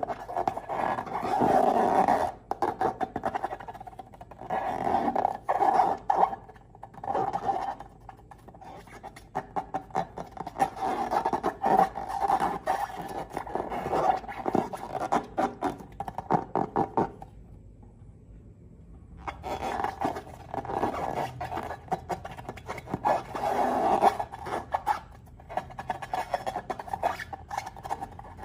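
Slime being squeezed and stretched by hand: sticky squelching and crackling in repeated bouts, with a pause of about two seconds about two-thirds of the way through.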